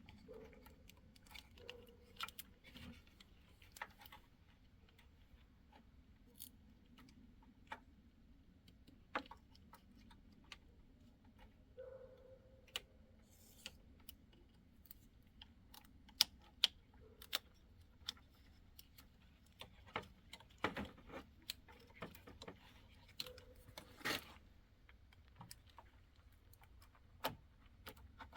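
Irregular small clicks, taps and light clinks of hands and small tools working at a car's wiring connector and its plastic clips, a few sharper clicks standing out past the middle.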